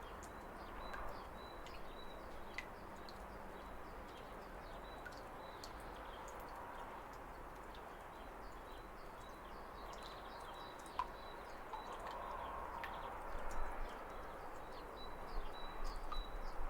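A steady rush of falling water, with small birds chirping in short calls over it and a thin high note held faintly behind. Low bumps come in near the end.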